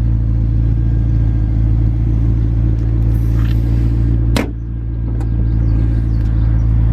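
Steady low rumble of an idling car engine. About four seconds in comes a single sharp thud as the front hood (bonnet) is shut.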